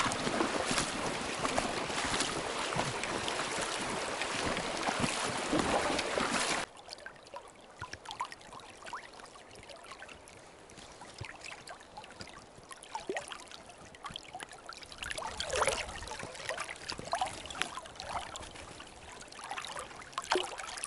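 Steady rushing noise of wind on the microphone, which cuts off abruptly about six and a half seconds in. After that come quieter scattered light scrapes and clicks.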